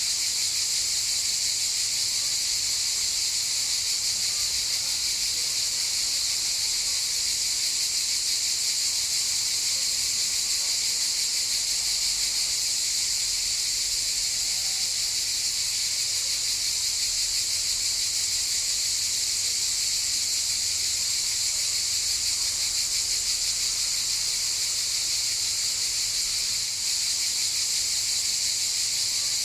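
Chorus of cicadas buzzing in a steady, unbroken high drone.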